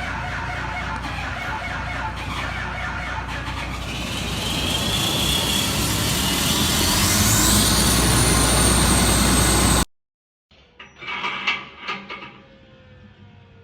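John Deere diesel engine running and growing louder, with a whistle that climbs steeply to a high pitch. The sound cuts off abruptly about ten seconds in, and a few quieter clattering knocks follow.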